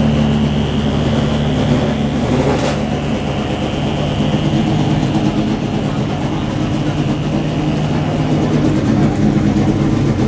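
A car engine idling steadily, with a thin high-pitched tone above it and a single click about two and a half seconds in.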